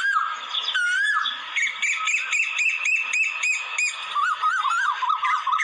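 Asian koels calling: a few rising whistled notes, then a fast run of repeated sharp notes at about four a second, and from about four seconds in a lower, bubbling series of notes.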